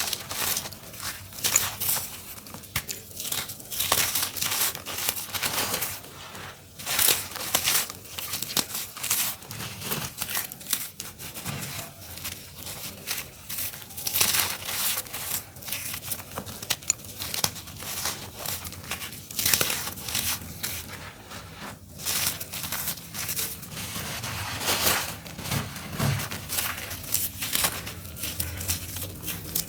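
Dry, crunchy earthy dirt chunks being crumbled and crushed: a continuous run of irregular gritty crunches and crackles.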